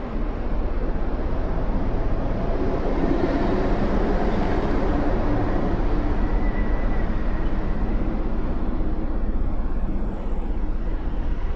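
Motorcycle riding along: a steady rush of wind and road noise with the engine running underneath.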